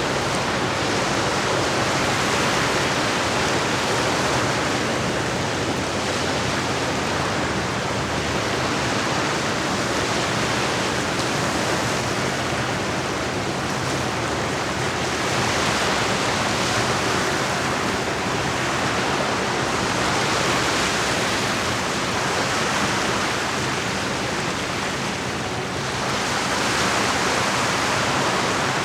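Lake water washing against the shore: a steady rushing hiss that swells and eases every few seconds as small waves come in.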